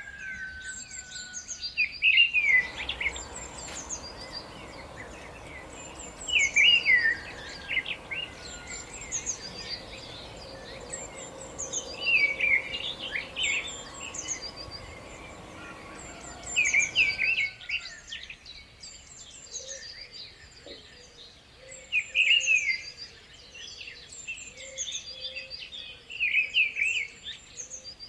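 Wild songbirds singing, with a loud short song phrase every four to five seconds and thin high chirps in between. A steady background rush runs under the birds for most of the first two-thirds and then cuts off suddenly.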